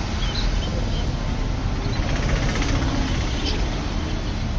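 Steady outdoor market din with a loud low rumble, likely passing traffic, and a few brief high chirps, likely from caged birds.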